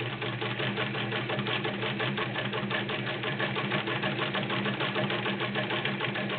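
Vintage Singer 306K sewing machine running at a steady speed: a motor hum under a rapid, even ticking of the needle mechanism.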